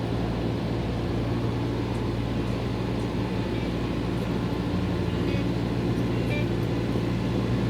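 Tractor engine running steadily at a constant pitch as the tractor climbs a steep forest track.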